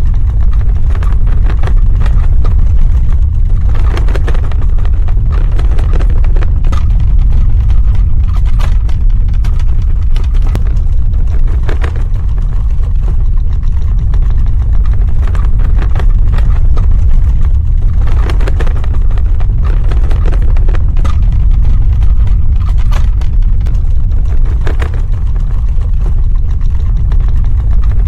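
Earthquake sound effect: a loud, continuous deep rumble with scattered sharp crackles throughout.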